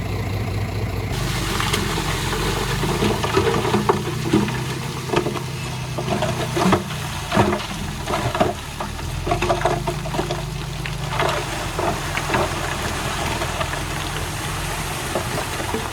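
Heavy diesel earthmoving machinery running steadily, with a rush of noise starting about a second in. Irregular knocks and clatter of soil and stones follow, thickest through the middle and easing near the end.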